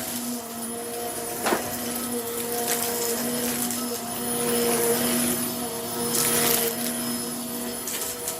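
Vacuum cleaner running, its motor hum swelling and fading over steady suction noise, with a sharp click about a second and a half in.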